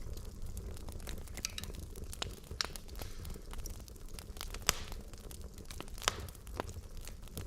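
Wood fire burning in a fireplace: a steady low rumble of the flames with scattered sharp crackles and pops from the burning logs, a few louder pops among them.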